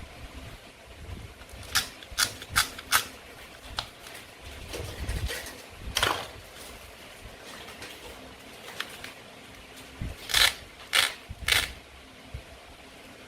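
Sharp clicks and taps of plastic and wooden toy food pieces being handled and cut: four quick clicks about two seconds in, a single one around the middle, and three more near the end.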